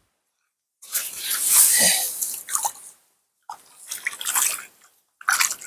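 Water splashing and dripping from a landing net holding a freshly caught rainbow trout as it is handled, in three bursts with short pauses between.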